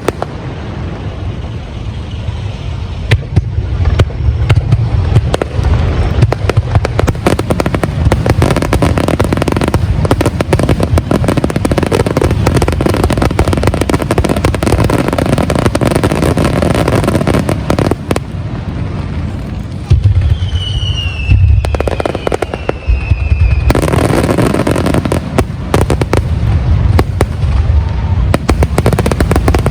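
Aerial fireworks display: a continuous barrage of low booms and dense crackling bursts, easing briefly about two-thirds in before building again. A falling whistle tone sounds just after the lull.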